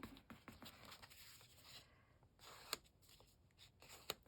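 Faint rustling of a paper envelope being folded and creased by hand, with a couple of light clicks near the middle and end.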